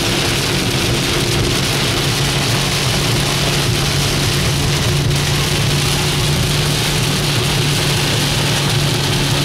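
Heavy rain pounding on a moving car, heard from inside the cabin, with tyres hissing through water and a steady low road drone underneath.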